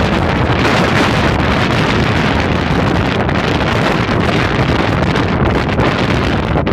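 Strong wind buffeting the microphone in a steady, loud rush, with a low rumble underneath.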